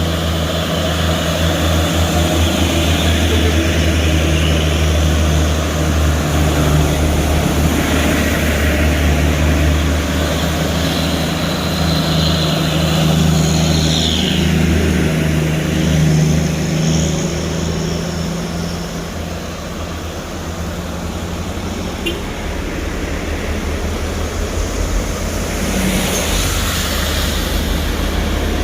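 Large diesel trucks running under load up a hill: a steady, low engine drone with road and traffic noise. It eases off a little about two-thirds of the way in.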